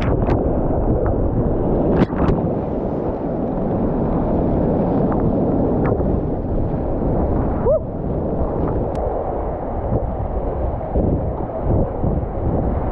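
Loud, steady rush of fast river water at high water, mixed with wind buffeting the microphone, with a few sharp knocks about two seconds in and again near six and nine seconds.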